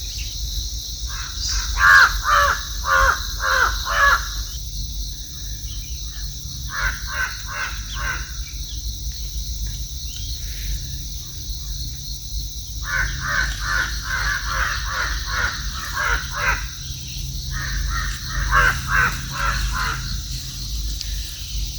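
Birds giving harsh, caw-like calls in quick series, in several bouts of a few seconds each, over a steady high hiss.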